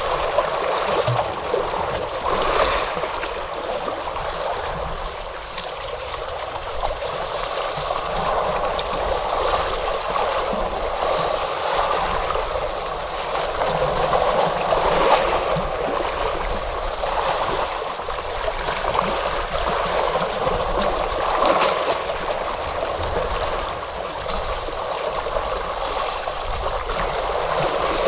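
Ocean surf washing on a shore: a steady rush of water with small splashing surges, the largest about halfway through and another a few seconds later.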